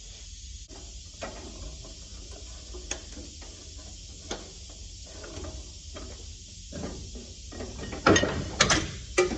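Mechanical shop work on the truck's front suspension: scattered metal clicks, rattles and ratchet-like clatter from tools and parts, then a few louder metal clanks near the end.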